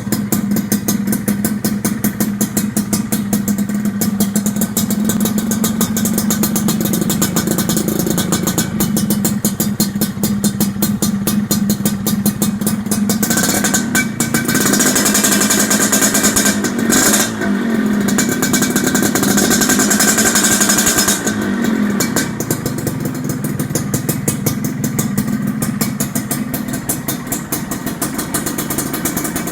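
Suzuki Satria motorcycle with an Andyspeed aftermarket exhaust idling with an even pulse. About halfway through it is revved up and held high for several seconds, then drops back to idle.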